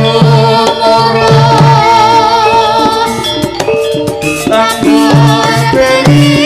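Live Javanese jaranan (Turonggo) ensemble music: drums and percussion strike steadily under held pitched notes, with a melody line that wavers in pitch in the middle.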